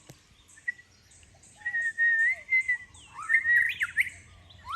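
White-rumped shama singing: a long wavering whistled note, then a quick run of rising and falling notes. A faint, even series of very high pulses runs underneath.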